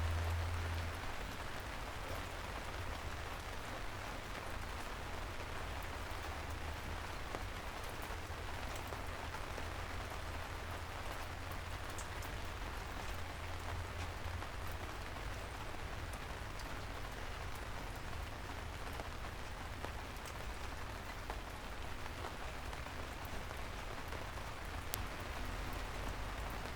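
Steady soft rain falling on city streets: an even hiss with a few scattered sharp drip ticks, over a low rumble that is a little louder in the first second.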